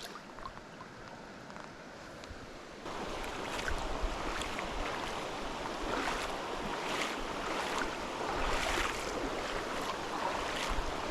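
River water rushing over small waterfalls and riffles, a steady wash that gets suddenly louder about three seconds in.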